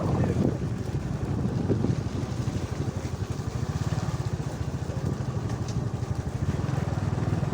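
Small vehicle engine running at a steady cruising speed with a fast, even pulse, heard from on board while travelling along a cobblestone-paved rural road.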